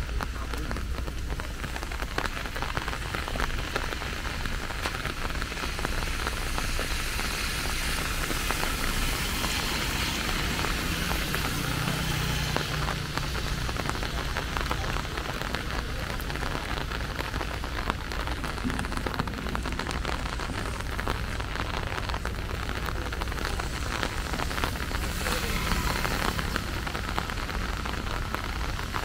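Steady rainfall: an even, dense hiss of drops that holds at the same level throughout.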